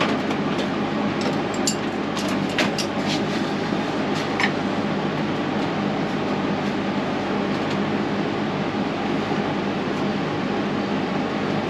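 A steady whirring hum of shop machinery, like a fan or air conditioner, with a handful of light metallic clicks and taps in the first half as a small welded steel test piece is worked with pliers.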